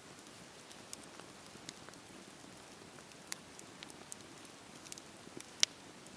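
Fire in a fireplace crackling: a soft steady hiss with scattered sharp pops, one stronger a little past the middle and the loudest near the end.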